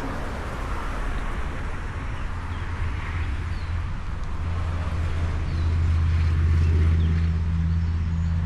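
A low, steady engine hum, as of a vehicle idling or passing, that grows louder about five seconds in. A few faint bird chirps sound above it.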